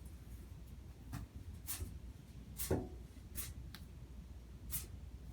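Ornate monitor lizard chewing a dead baby cockatiel: about six short crunches and rustles, roughly one a second, the loudest a little past the middle.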